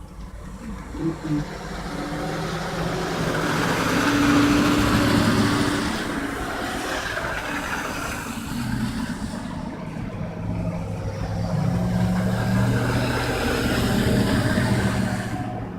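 Motor vehicles passing on a road: engine and tyre noise swells and fades about four seconds in, then a second, longer pass with a steady low engine tone from about eleven to fifteen seconds.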